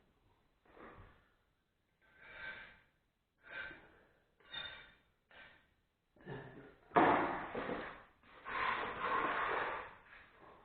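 Tile grout being stirred and scraped by hand in its container: a run of short, irregular scrapes, with two longer, louder ones about seven and nine seconds in.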